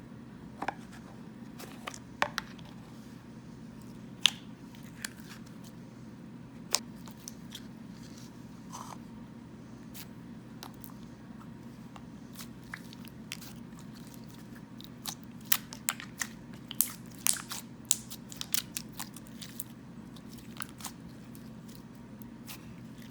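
Thick clear glue slime worked by hand, making scattered sharp crackling pops and clicks that come thickest in a quick run past the middle, over a steady low room hum.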